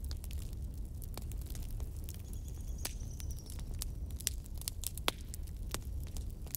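Wood fire crackling: irregular sharp pops and snaps over a steady low rumble, the loudest pop about five seconds in. A faint high whistle sounds briefly near the middle.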